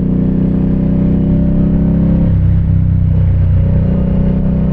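2017 Indian Scout's V-twin engine running under way on a mountain road. The note shifts for about a second starting a little past two seconds in, then runs steady again.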